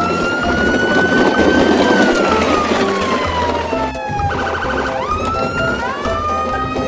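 A siren wailing: the pitch climbs slowly, falls away over a couple of seconds, then swoops up again about five seconds in, with a brief rapid pulsing just before. Background music with a steady beat plays underneath.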